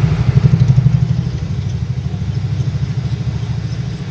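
An engine running with a fast, even, low pulsing, loudest in the first second and easing off after.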